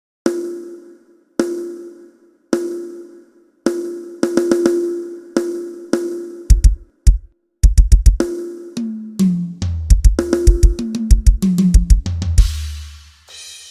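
Drum kit sound check: single snare hits about once a second, then the bass drum joins in. It closes with a fast fill stepping down through the toms and a crash cymbal near the end.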